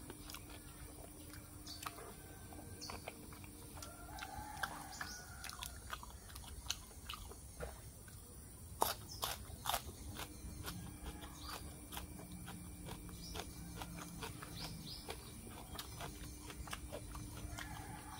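Mouth sounds of a person chewing food close to a lapel microphone: scattered wet clicks and smacks, with a few louder smacks about nine to ten seconds in.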